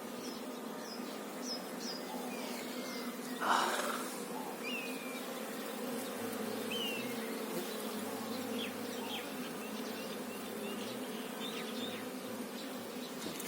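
Honeybees humming steadily around the hives, a many-winged drone, with faint high chirps scattered over it. A short, loud noisy burst about three and a half seconds in.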